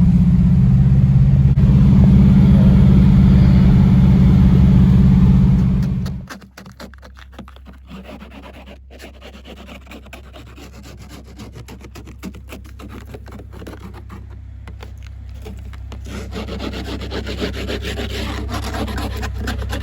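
Steady road and engine drone inside a moving Subaru for about six seconds, then it drops off suddenly to a much quieter stretch of rapid clicking and rubbing noise that slowly grows louder toward the end.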